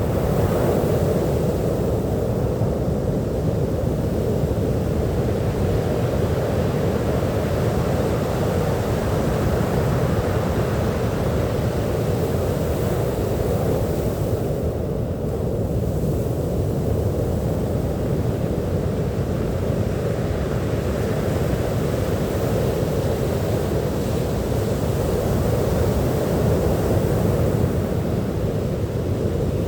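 Sea surf on a beach making a steady, deep rushing, with no separate wave breaks standing out.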